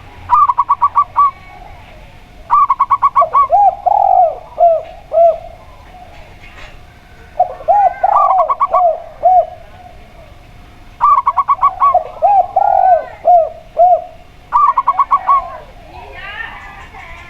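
Zebra dove and spotted dove cooing: five phrases, each a quick run of short notes followed by a few lower, longer coos.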